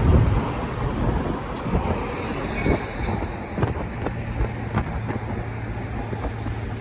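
Truck engine running steadily with road noise, with a few faint clicks.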